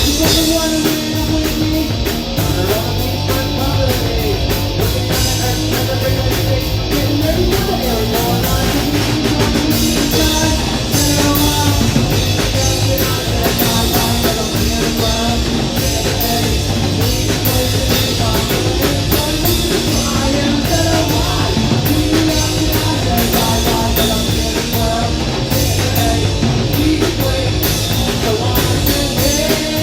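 Live rock band playing: distorted electric guitars, bass and a drum kit, with a voice singing over them.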